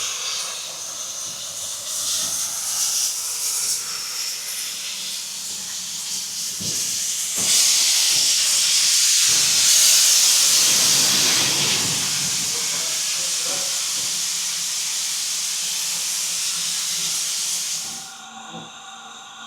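Steam locomotive blowing off steam: a loud, continuous hiss that swells about halfway through and cuts off sharply near the end.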